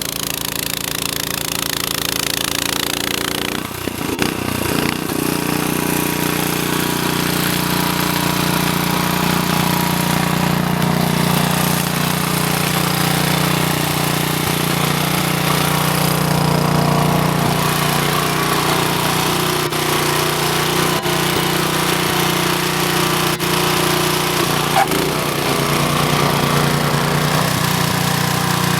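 Honda snowblower engine running steadily while clearing deep snow, its note shifting about four seconds in and then holding steady.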